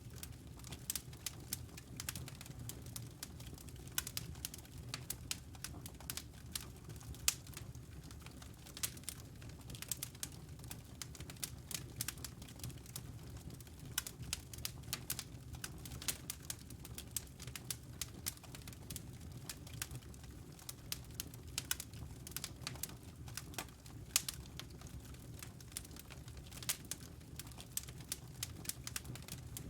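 Wood fire burning in a fireplace: a steady low rumble of flames with many irregular, sharp crackles and pops from the burning logs.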